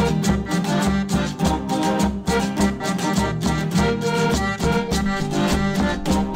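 Instrumental sanjuanito dance music: a string-led band with a steady drum beat about twice a second.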